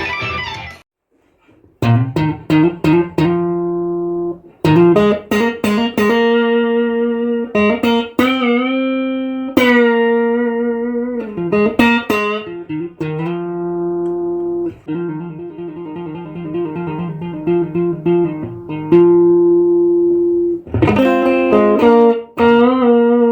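Strat-type electric guitar played with a clean tone: single notes and double-stops with string bends and vibrato, starting after a short pause about two seconds in.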